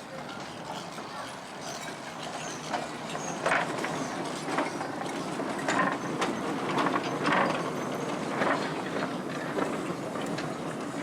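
Miniature railway train running on the track, its wheels clicking irregularly over the rail joints, getting louder.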